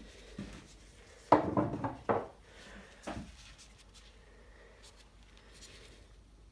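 Objects being handled on a shop workbench: a quick cluster of knocks and clatter about a second and a half in, then a single knock about three seconds in.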